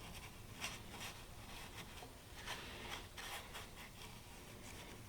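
Faint, irregular rubbing and scratching strokes, a few short scrapes spread unevenly over several seconds.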